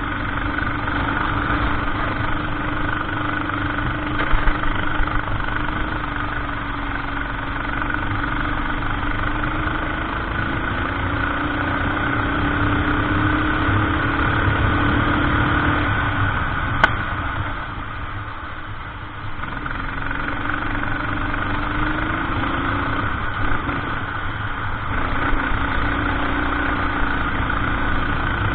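Kart engine running at race pace, heard from on board: the revs climb and drop again and again as the kart accelerates and slows for corners, with a low rumble underneath. One sharp click about seventeen seconds in.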